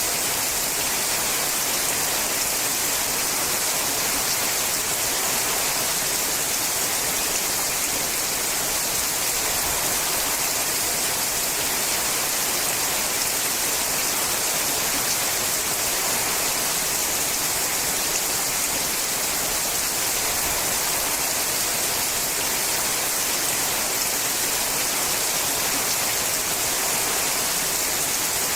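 Steady rain falling on a sheet-metal roof: a dense, even hiss of drops with no single hits standing out and no let-up.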